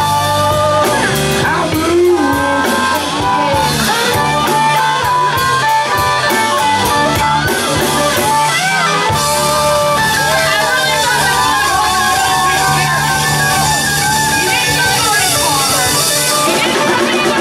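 Live blues band playing: a lead guitar line with bent notes over bass and drums.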